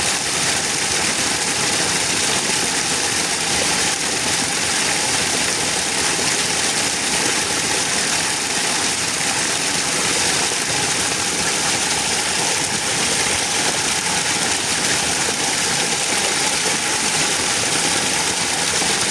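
Steady, unchanging machine noise, like an engine running at idle, with a strong hiss over it.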